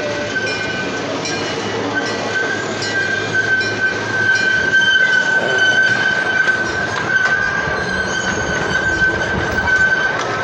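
A freight train rolling, heard from on board a car, with a steady high-pitched squeal from its steel wheels running over the track rumble; it gets louder about four seconds in.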